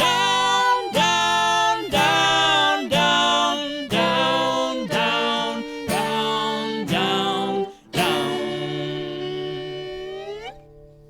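Acoustic guitar chords strummed about once a second under a held melody line, bringing the song to its close. A final chord about eight seconds in rings out and fades away.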